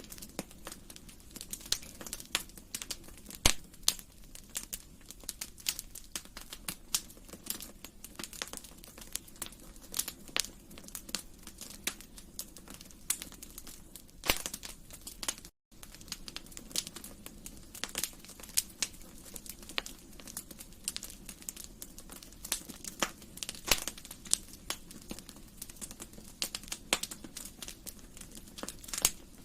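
Fire crackling in a fireplace: irregular pops and snaps, some louder than others, over a steady low rush. The sound drops out for an instant about halfway through.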